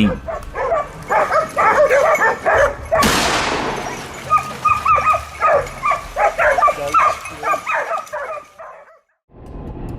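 Hunting dogs barking and yelping in quick, repeated calls while baying a wild boar. About three seconds in comes a sudden loud burst that fades over a second or so.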